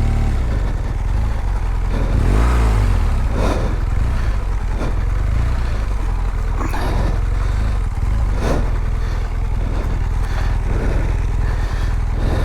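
BMW R1200GS boxer-twin engine running steadily, revved up and back down once about two seconds in, with several sharp knocks and clatters from the bike at intervals.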